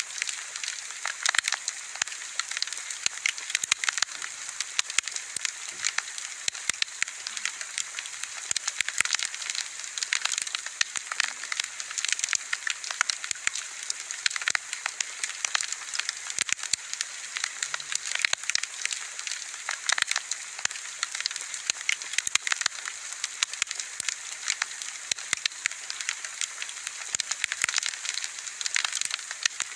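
Wood bonfire crackling, with frequent irregular sharp snaps and pops over a soft steady hiss.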